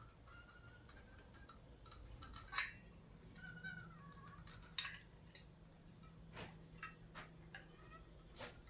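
Faint sharp clicks and knocks, a few louder ones in the first half and a quicker run of smaller ones near the end, with faint short high-pitched chirps between them.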